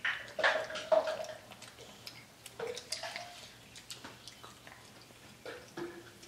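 Children chewing chicken nuggets: wet mouth smacks and clicks, with a few short hums in between.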